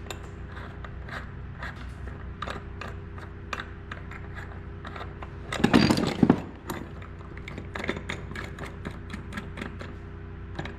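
Hand tools working the nuts on a steel bearing puller: a steady run of small metal clicks and clinks as the nuts are loosened by wrench, with a louder metal clatter about six seconds in.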